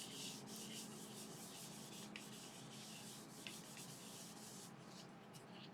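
Paper towel rubbing oil finish onto the outside of a sycamore bowl: a faint, soft rubbing hiss that thins out about five seconds in, over a faint steady hum.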